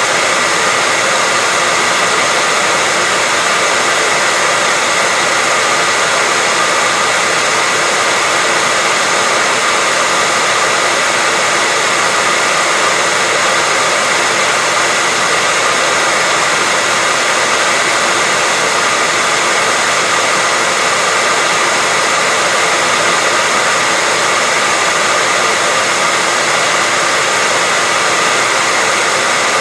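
Hairdryer running continuously at a steady speed: an even, unchanging rush of air with a faint motor whine.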